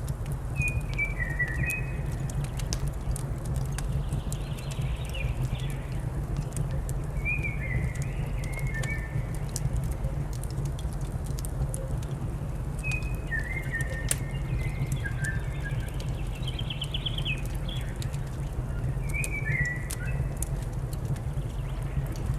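Wood fire crackling in a fireplace, sharp irregular pops over a steady low rumble, with a songbird's short chirping phrases recurring every few seconds.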